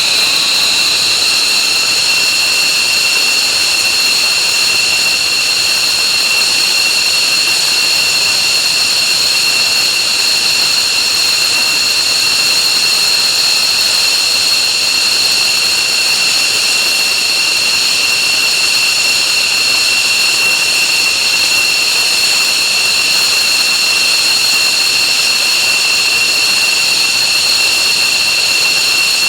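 F-15J's F100 turbofan jet engines running on the ground: a loud, steady high-pitched whine over a rushing roar.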